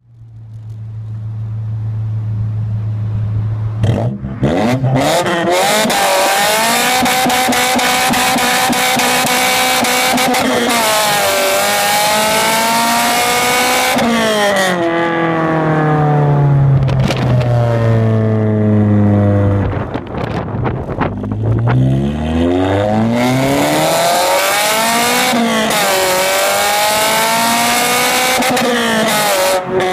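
Honda Accord Type R's 2.2-litre VTEC four-cylinder engine through a de-catted straight-pipe exhaust with no back boxes: idling at first, then revved up and down repeatedly, holding high revs for a few seconds at a time before dropping back.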